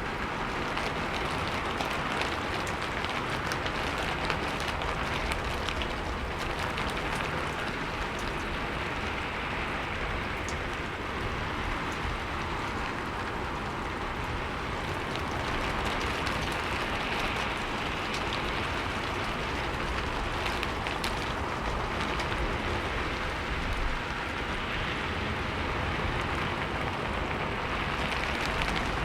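Steady rain falling, a continuous hiss with scattered sharper drop ticks on a surface.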